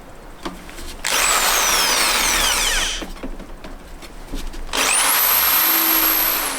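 Cordless drill running in two bursts of about two seconds each. In the first its pitch falls steadily as the motor slows under load. In the second it spins up quickly and holds a steady high whine.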